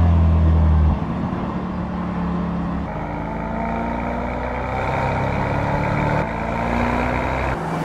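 Mercedes-AMG GT 63 S E Performance's 4.0-litre twin-turbo V8 running on the move. A loud, steady drone fills the first second, then after an abrupt change the engine note rises slowly in pitch and breaks off suddenly near the end.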